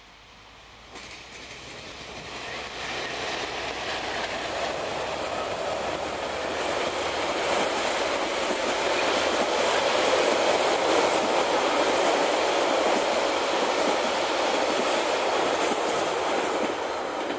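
Diesel-hauled passenger train passing close by: the locomotive's engine and then the coaches' wheels running on the rails. It grows louder over the first several seconds, stays loud for a while, and drops away near the end as the train goes by.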